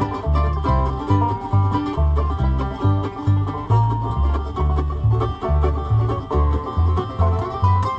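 Acoustic bluegrass jam played instrumentally: banjo rolls and guitar over a low bass line that keeps a steady beat of about two notes a second.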